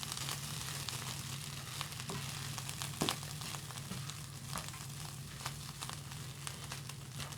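Egg fried rice sizzling in a hot wok: a steady frying hiss with scattered small crackles and a sharper click about three seconds in, over a steady low hum.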